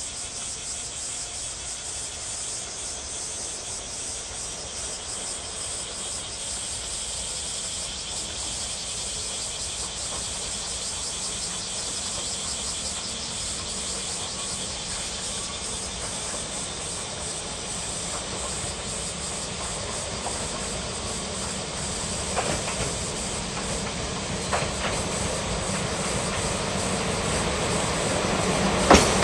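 Freight train approaching on the rails: a steady hiss of running noise that grows gradually louder, with a few sharp clicks from the rails in the last several seconds.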